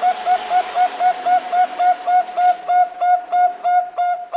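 Zebra dove (Bangkok-type perkutut) calling: a fast, even run of short coos, about four a second.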